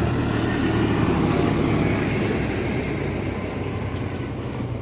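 Royal Enfield Classic 350's single-cylinder engine running steadily while riding, with wind noise on the microphone.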